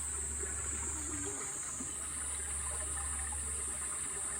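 Water running steadily into an aviary pond, a continuous trickling flow, with a steady high-pitched hiss above it.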